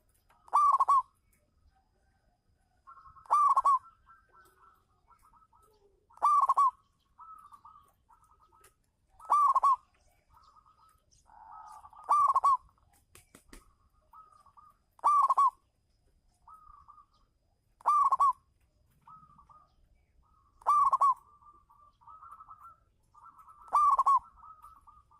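Zebra dove (perkutut) song: a loud cooing note with a falling pitch about every three seconds, with softer, rapid cooing notes between them.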